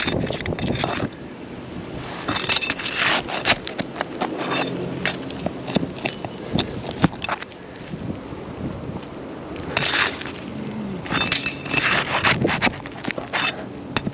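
A metal tool scraping and clinking against asphalt shingles as roofing nails are pried out from above, in irregular clusters of sharp clicks and scrapes.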